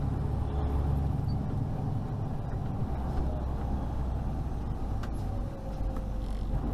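Road noise of a moving car recorded by its dashcam on a freeway: a steady low rumble from the tyres and engine.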